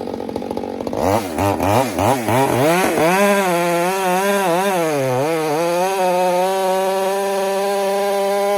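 Two-stroke chainsaw idling, then revved in quick throttle blips about a second in, then held at full throttle. Its pitch sags and wavers under load a few seconds in, then settles into a steady high note as it cuts through a large trunk.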